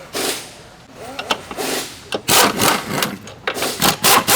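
Ratcheting tool working the engine mount bolts on a Volkswagen Passat 1.8, in irregular rasping bursts that grow louder and closer together in the second half.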